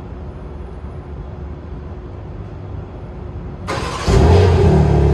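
2023 BMW M3 Competition (G80), its twin-turbo inline-six cold-started on the stock exhaust: after a low background rumble, the starter cranks briefly near the end and the engine catches at once, flaring up and running loudly.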